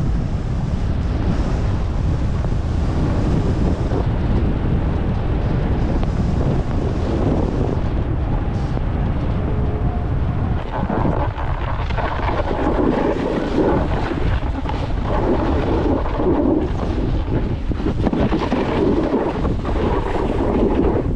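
Strong blizzard wind buffeting the microphone: a loud, steady rushing rumble, which turns rougher and coarser from about halfway through.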